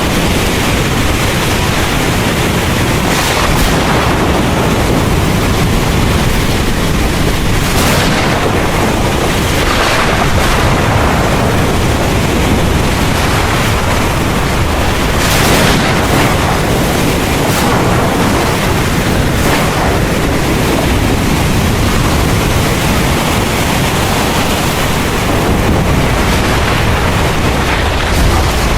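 Heavy rain pouring steadily, with a low rumble of thunder beneath it. A few short swells of louder noise come and go.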